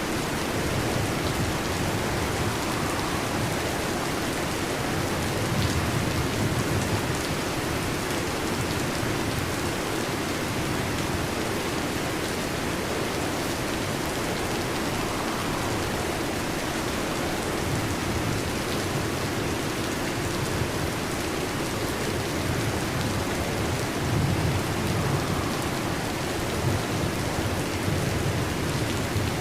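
Steady heavy rain, with low rumbles of thunder swelling twice, a few seconds in and near the end.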